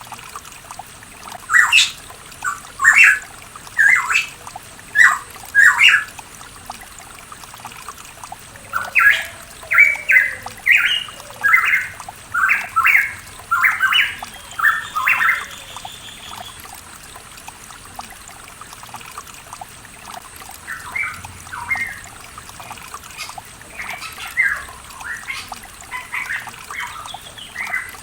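Pitohui calling in runs of short, sharp notes about half a second to a second apart: one run of six notes about two seconds in, a longer run of about a dozen notes from around nine seconds, and fainter notes near the end. A stream trickles steadily underneath.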